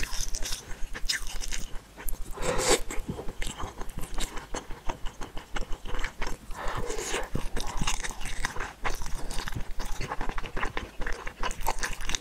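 Close-miked eating of noodles and fishballs: a steady run of wet chewing and biting clicks, with two longer, louder sounds about two and a half and seven seconds in.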